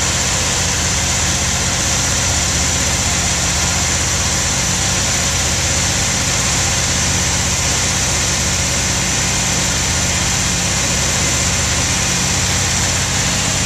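A 1971 Corvette V8, freshly built, running steadily at a raised fast idle during its first break-in run. The engine speed holds even, with no revving.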